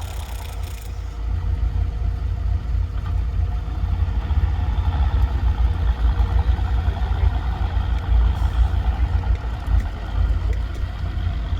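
Off-road vehicle engine running, getting louder from about four seconds in, over heavy low-pitched noise.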